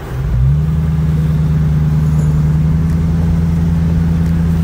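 Jeep engine revving up over about half a second, then running at a steady, even pitch under load while pulling through deep snow.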